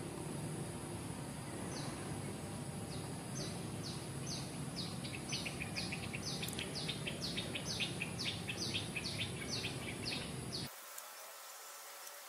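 Natural ambience: a steady high insect whine over a noisy background, with a bird calling a long series of short descending notes that come faster and grow louder from about two seconds in. Near the end the background cuts off abruptly, leaving a quieter, thinner insect hum.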